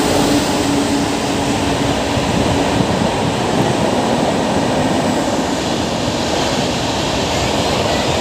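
Duronto Express passenger train running past at speed: a loud, steady rushing noise of wheels and coaches on the track.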